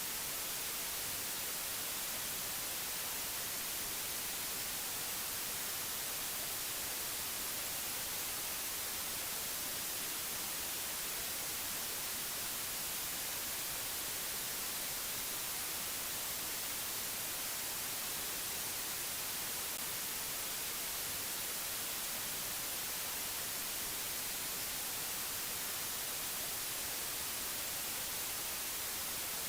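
Steady, unchanging hiss of static-like noise, brightest in the treble, with no other sound.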